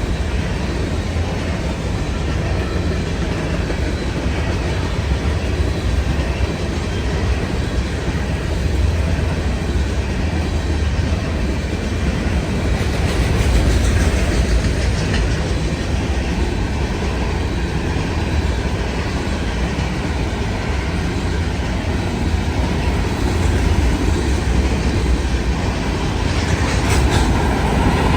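Freight train of grain cars rolling past steadily, its wheels running over the rails.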